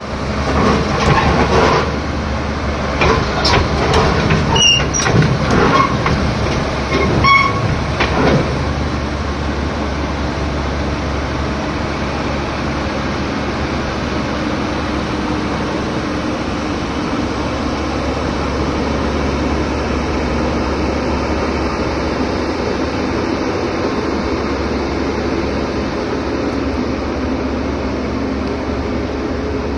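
Heavy machinery running with a steady low engine rumble, and sharp metallic clanks and ringing knocks during roughly the first eight seconds.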